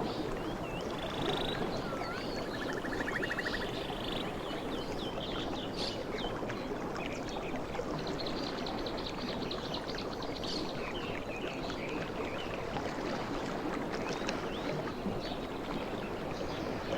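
Sea waves washing on the shore in a steady rush, with scattered high chirps and a couple of short trills from small animals over it.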